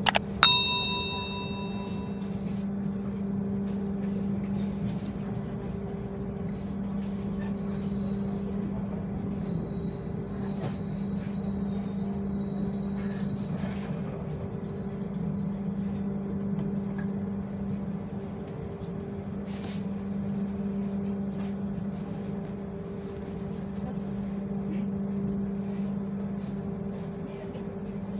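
A steady low hum from the train arriving at the station, running evenly throughout. About half a second in, a single bell-like chime strikes and rings away over a couple of seconds.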